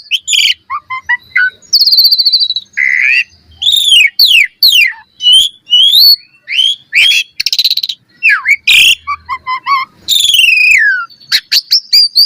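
Asian pied starling (jalak suren) singing a fast, varied song: whistled notes that glide up and down, falling slurs and harsh rattling, clicking phrases, with short breaks between them.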